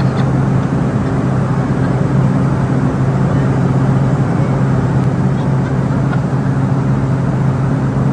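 Cabin noise of a small private jet in flight: a steady drone of engine and airflow with a constant low hum.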